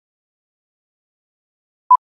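Silence, then near the end one short electronic beep at a single steady pitch.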